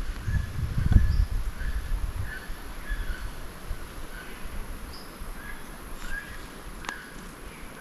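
Rainforest ambience: an animal repeating short chirping notes about twice a second over a steady high hiss. A low rumble fills the first two seconds, and a single sharp click comes near the end.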